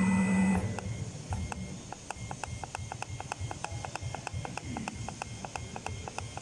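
A loud, steady hum cuts off about half a second in. It is followed by an even, quick clicking beat of about five ticks a second, most likely the beat of background music.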